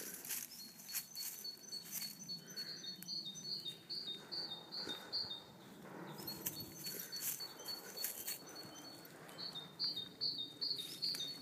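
A bird chirping over and over: a short high note repeated a few times a second, in runs broken by pauses, with scattered light taps.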